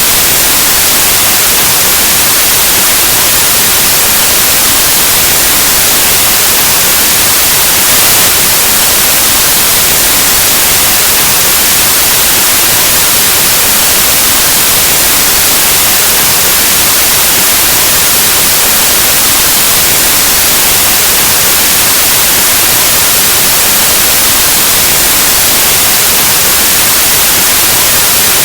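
Continuous white noise: a steady, loud static hiss, brightest in the upper frequencies, with no change throughout.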